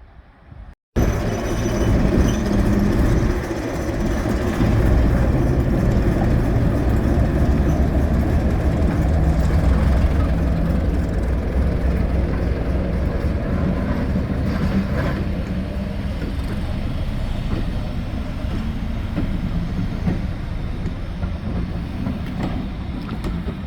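Train running past close by: a loud, steady rumble of wheels on rail that starts suddenly about a second in and carries on without a break.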